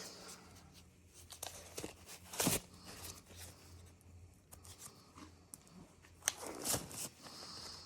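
Scattered clicks, knocks and rustling of small parts and tools being handled during hands-on repair work. The strongest knocks come about two and a half seconds in and again near the end.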